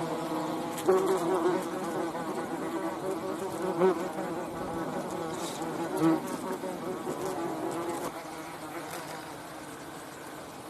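A flying insect buzzing, a steady drone whose pitch wavers. It swells louder about a second in, near four seconds and near six seconds, then weakens after about eight seconds.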